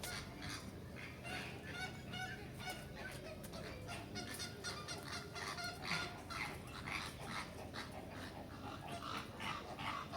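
Many birds calling at once: a dense run of short calls repeated over and over and overlapping.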